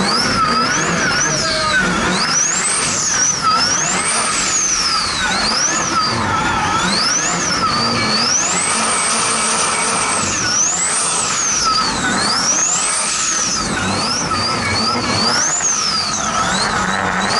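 Holden Commodore drift car's engine revving up and down over and over as it drifts around the course, heard close from the bonnet, over a steady rush of wind and road noise.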